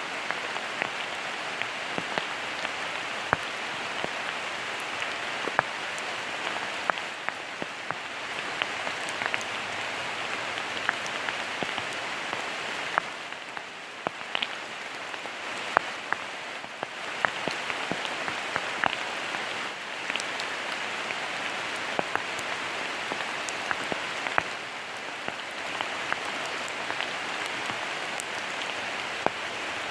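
Steady autumn rain falling, with frequent sharp drops striking close by, easing slightly about halfway through.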